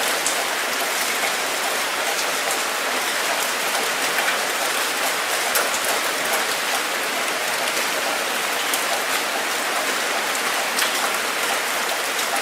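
Steady rain falling, a dense even hiss with many individual drops ticking on a hard surface.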